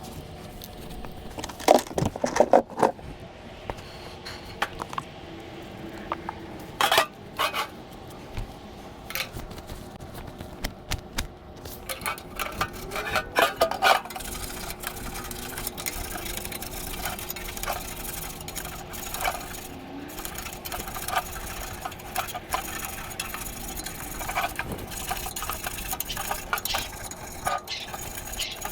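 Irregular metallic clinks, knocks and scraping from metal parts and tools being handled, with the loudest clusters about two, seven and thirteen seconds in.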